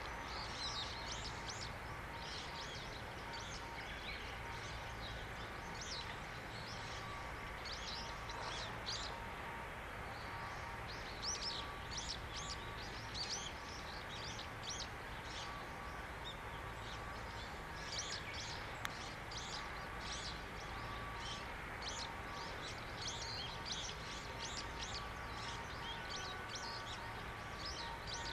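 Small birds chirping repeatedly in quick short calls, over a steady background din with a couple of faint steady tones, likely distant shipyard machinery.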